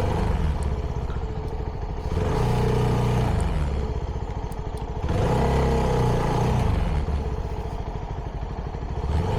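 CFMoto 300NK's single-cylinder engine through its stock exhaust, revving up under throttle about three times and easing off in between.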